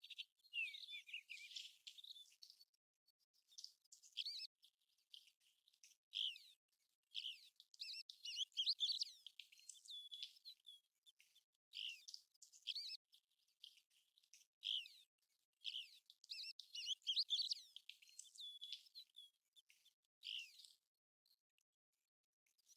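American golden plover calling: bursts of short, high whistled notes, many of them sliding in pitch, with brief pauses between the bursts.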